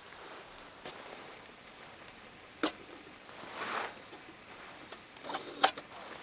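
A few sharp knocks or snaps, the loudest near the end, with a brief whooshing rustle in the middle.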